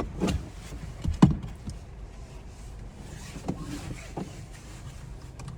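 Steady low road rumble inside a moving car's cabin, with a few short knocks and rattles, the loudest about a second in.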